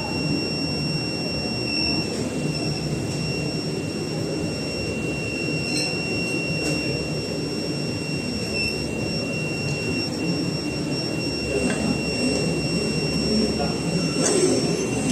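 SuperbMelt SPB-DH2 mini induction melting furnace running: a steady high-pitched whine with a fainter tone an octave above it, over a steady low rushing noise.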